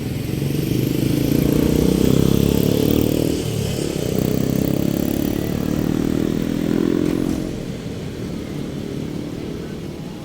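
A nearby engine running hard, its pitch rising and falling twice, louder for most of the time before fading away near the end.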